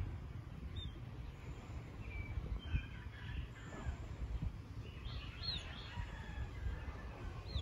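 Short, high bird chirps: a few faint calls, then a quick pair about five and a half seconds in and another pair at the very end, over a low outdoor background rumble.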